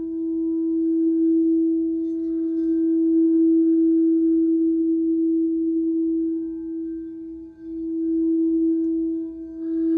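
Singing bowl sustaining one steady, ringing tone that swells and ebbs in loudness, fading sharply about three-quarters of the way through and then swelling back up.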